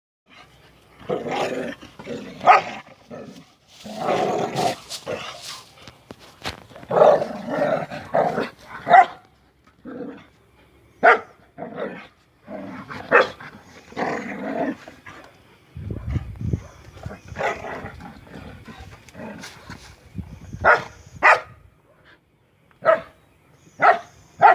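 Pet dogs barking and growling in irregular bursts, with many short sharp barks and some longer rough growling stretches.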